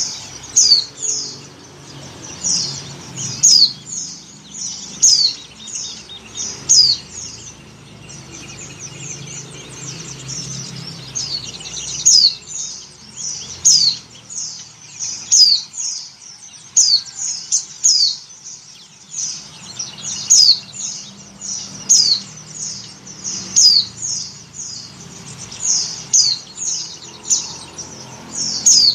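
White-eye (pleci) calling: quick runs of short, high chirps, each sliding downward, several a second in clusters. It is a female in breeding condition calling for males, the kind of call used to lure male white-eyes.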